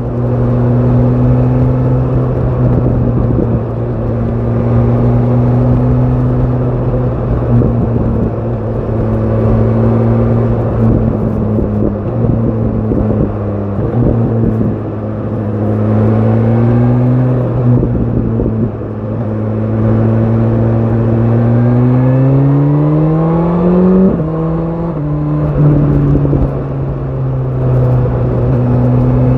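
BMW S1000 RR inline-four with an Akrapovic exhaust, ridden at a steady engine speed, then revving up in one long rise in the last third and dropping sharply with an upshift before it settles again.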